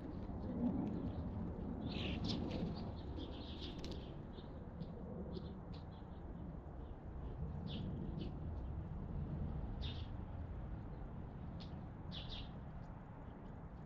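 Wild songbirds chirping at a feeding spot: many short, scattered chirps, some in quick clusters, over a steady low background rumble.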